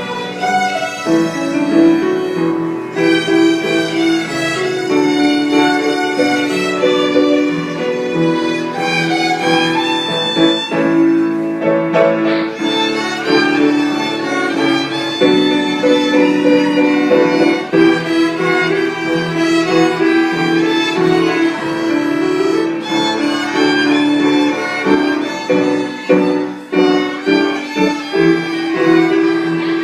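Violin being practised, playing a continuous run of notes with no pauses, over lower sustained notes.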